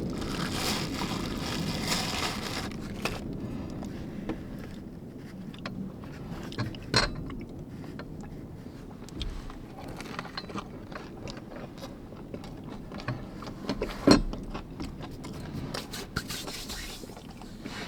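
Small handling sounds: scraping and light clicking, with a louder knock about seven seconds in and another about fourteen seconds in, over a noisy rush in the first few seconds.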